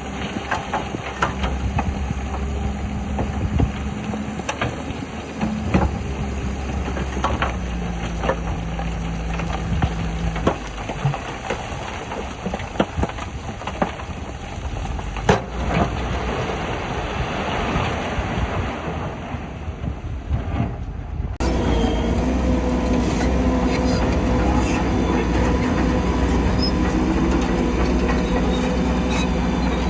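Shantui crawler bulldozer at work: its diesel engine running under the clank and rattle of its steel tracks, with scattered sharp knocks. About two-thirds of the way through, the sound changes abruptly to a louder, steadier engine drone.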